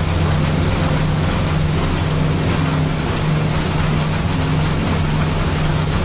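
Steady hiss of heavy rain layered over a deep, even brown-noise rumble, unbroken and without thunder.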